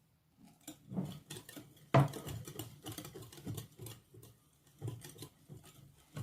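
Irregular soft clicks and knocks of a utensil against a mixing bowl as oil is mixed into the egg-and-sugar cake batter, with one sharper knock about two seconds in.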